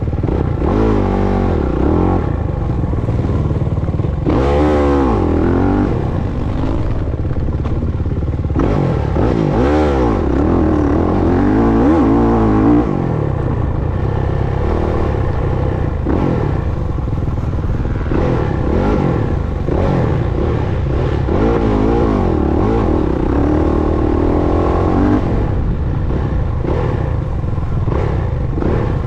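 Dirt bike engine being ridden hard, its pitch rising and falling over and over as the rider opens and closes the throttle.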